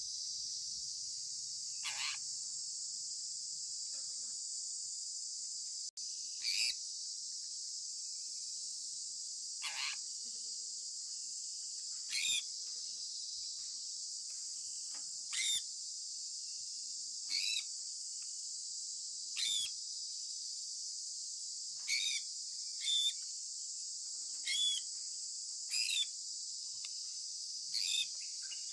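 Sun conure parrot giving short chirps that fall in pitch, one every two seconds or so and closer together near the end, over a steady high-pitched drone of insects.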